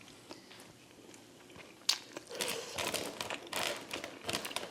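Crinkling and rustling of takeout food packaging being handled close to the microphone, starting with a sharp click about two seconds in and continuing in quick, uneven strokes.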